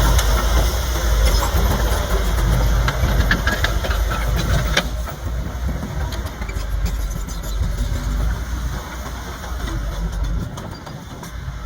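Komatsu D31P bulldozer's diesel engine running under load, with scattered metallic clanks and knocks. It eases slightly about halfway through.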